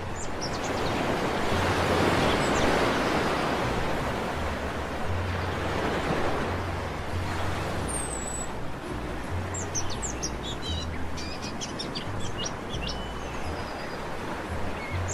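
Sea waves breaking and washing on a beach, swelling twice in the first half, with small birds chirping repeatedly from about halfway through.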